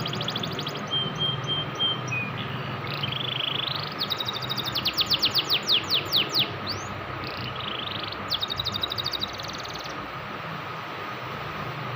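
Domestic canary singing in bursts of fast, falling trills and whistled notes, loudest about four to six seconds in, over a steady background hum.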